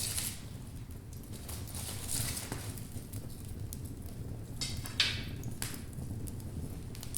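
Wood logs burning in a fireplace: irregular crackling and popping over a low, steady rumble of the flames. About five seconds in there is a brief hiss, ending in a sharp pop that is the loudest sound.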